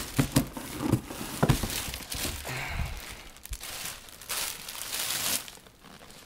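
Packaging crinkling and rustling in bursts as a motocross boot is pulled out of its box, loudest in the first two seconds and again a little past the middle.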